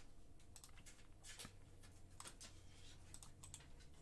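Faint computer keyboard typing: scattered soft key clicks over a low steady hum.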